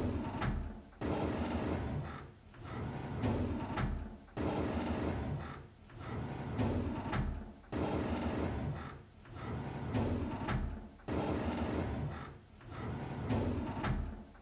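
A drawer being slid open over and over. Each pull is a noisy slide that swells and fades, repeating roughly every second and a half to two seconds, about eight times.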